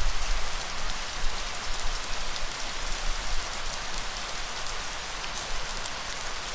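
Steady rain falling, a dense hiss with scattered drop patters and a low rumble underneath.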